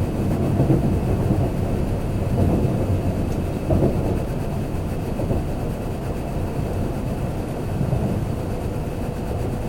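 Kintetsu limited express train running, heard from inside the passenger car: a steady low rumble from the wheels and running gear on the rails.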